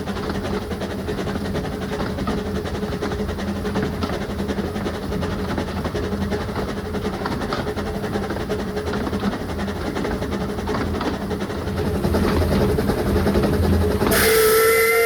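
Narrow-gauge steam train running steadily, a continuous rumble with a low hum. Near the end, the locomotive's steam whistle blows once for about a second, loud and hissy over a clear pitch.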